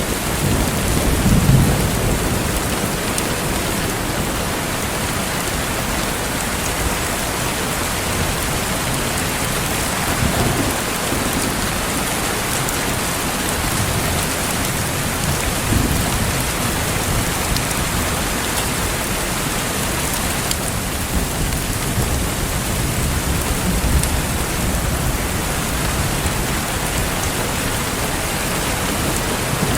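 Steady heavy rain with low rumbles of thunder. The loudest rumble comes about a second in, with weaker ones later.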